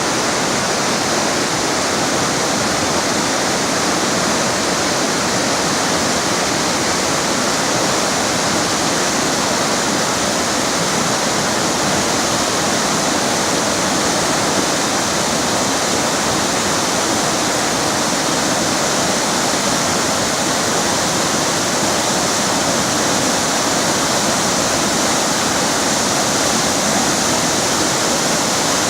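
River water rushing steadily over rocks, a constant loud hiss of flowing water.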